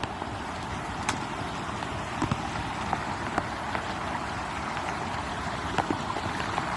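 Steady rush of flowing river water, with scattered sharp clicks throughout.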